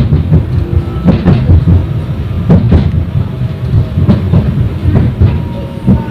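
71-931 "Vityaz" tram running on rails, heard from inside the car: a heavy low rumble with pairs of sharp clacks every second or so as the wheels cross rail joints. A faint whine falls in pitch near the end.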